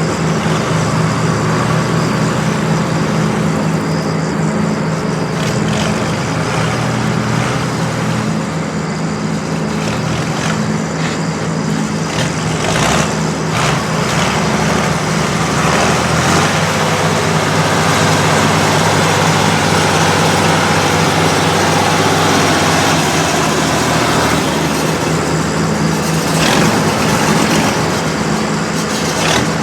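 Diesel farm tractor engines running steadily under load alongside a tractor-drawn maize forage harvester, with a broad mechanical noise over the engine hum that grows louder in the second half.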